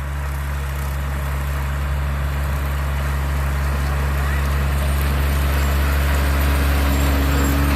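Tractor engine running at a steady speed while pulling a bush hog rotary cutter, with an even, low drone that grows gradually louder.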